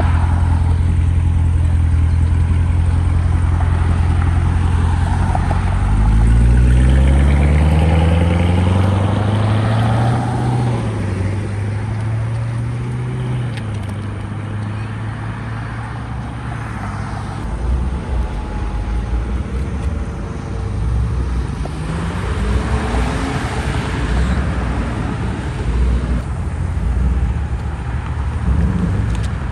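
Car engine running steadily, then accelerating hard about six seconds in with its pitch climbing, as in a pull leaving the lot. Another climb in engine pitch comes a little past twenty seconds in.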